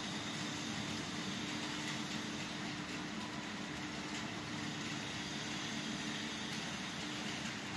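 Steady rain falling, an even hiss with a steady low hum underneath.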